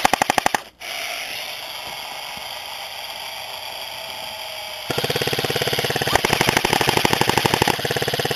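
Airsoft rifle firing full-auto bursts, a fast, even rattle of shots. One burst ends just under a second in, and a long burst starts about five seconds in. Between them is a quieter, steady hiss.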